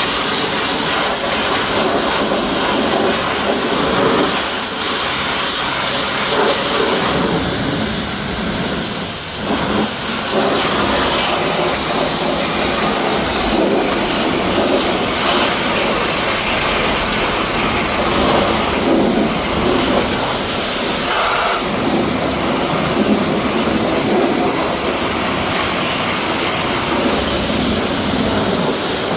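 Pressure washer jet spraying water onto a car's body, a steady loud rushing hiss that wavers as the spray moves, with brief dips about nine and twenty-one seconds in.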